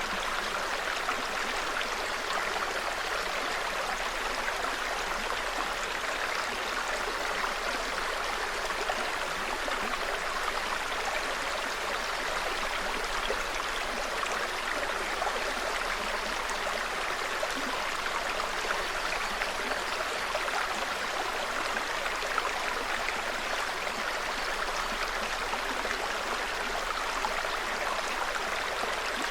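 Small mountain stream in a forest, water trickling and babbling over stones in a steady, even rush.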